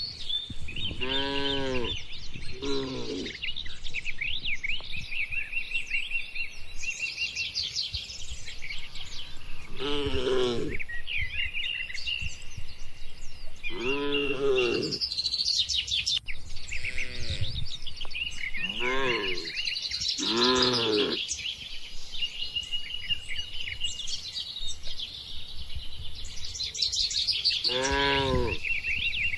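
Cattle mooing in short calls, about eight of them spread irregularly, each rising and falling in pitch, over continuous chirping of small birds.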